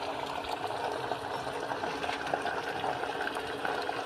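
Egg-battered vegetables frying in a little oil in a pan: a steady sizzle with small crackles throughout.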